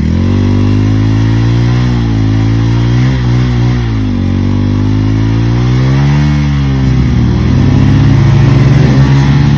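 Motorcycle engine running loud and close, its pitch dipping and rising a few times as the throttle opens and closes, then holding steadier near the end.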